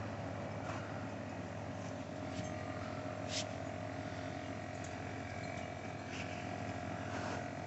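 MRCOOL Universal heat pump compressor running: a steady hum with a steady mid-pitched tone over it, the noise that the owner finds strange. A few brief sharp sounds break through it, about five times.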